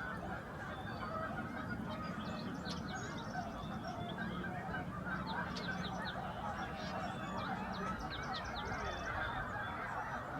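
A huge flock of wild geese calling all at once: a dense, unbroken din of overlapping honks, with many sharper single calls standing out above it.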